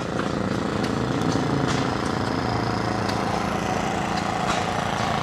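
Antique gasoline engine running steadily with a fast, even beat, a few sharp clicks sounding over it.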